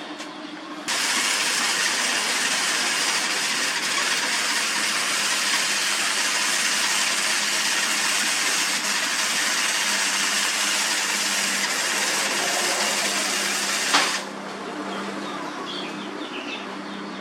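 Electric welding arc crackling and sizzling steadily. It strikes suddenly about a second in and cuts off near 14 s, leaving a faint low hum.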